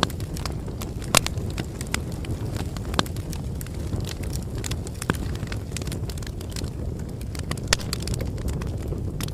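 Wood bonfire crackling: a steady low rumble of burning with irregular sharp pops and snaps, a few of them louder than the rest.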